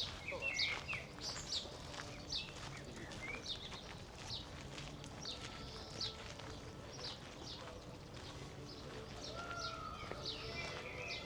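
Small birds chirping, a quick run of short high chirps repeated every half second or so, with some lower chirps among them.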